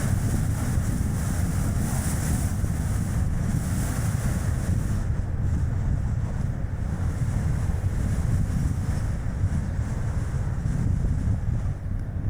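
Strong gusting wind buffeting the microphone with a steady low rumble, over tyre and road noise from a Chevrolet Spark light car driving along.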